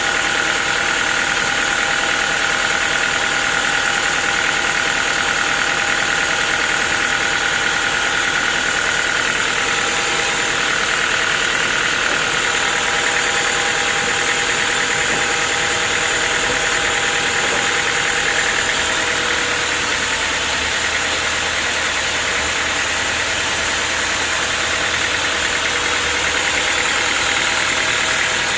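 Sawmill machinery running steadily, a constant machine drone with a steady high whine over a hiss.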